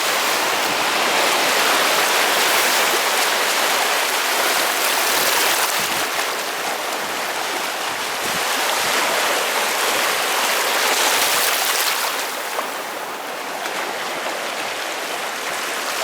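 Sea water washing steadily over a stony shore, a continuous rushing with gentle swells in loudness.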